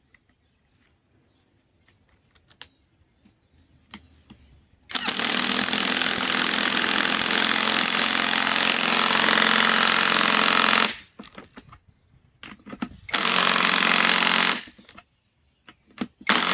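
Bauer compact cordless impact wrench hammering on a large fastener in three bursts: a long run of about six seconds, then a short burst, then another starting near the end.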